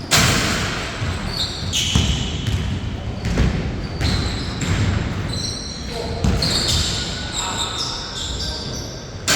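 Basketball bouncing on a hard indoor court during play, with irregular sharp bounces and short high sneaker squeaks, in an echoing hall.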